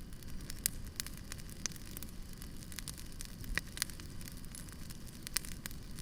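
Wood campfire crackling, with frequent sharp irregular pops over a steady low rumble of the flames.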